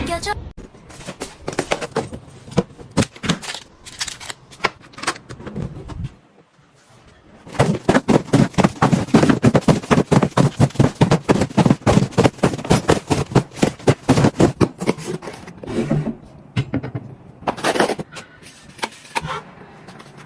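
A rapid series of loud, sharp impacts, several a second, breaking off briefly about six seconds in and then coming thickest and loudest through the middle stretch.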